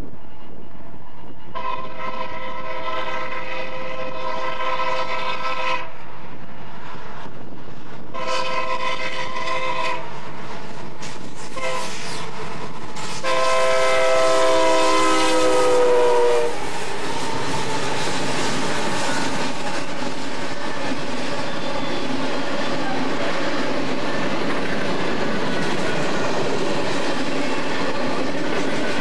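BNSF diesel locomotive horn sounding a series of long blasts and a few short ones as a coal train approaches; the last long blast, about 13 to 16 seconds in, is the loudest and drops in pitch as the locomotive passes. After that comes the steady noise of coal hopper cars rolling by on the rails, with the clickety-clack of their wheels.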